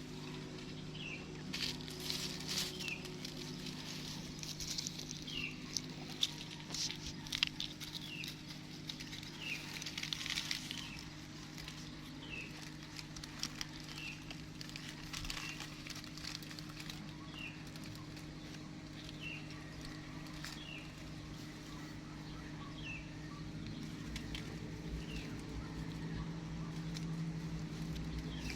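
Short, high, falling chirps repeating about once a second, over rustling and tapping that is busiest in the first ten seconds, with a steady low hum underneath.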